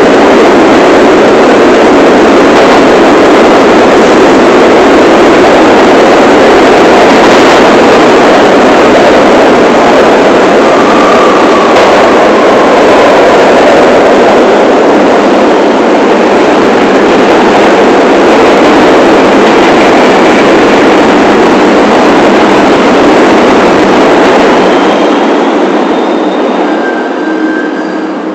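New York City subway train running at speed, a loud, steady rumble and rattle of wheels on rail. Near the end it eases off as the train slows, with a few faint high squeals.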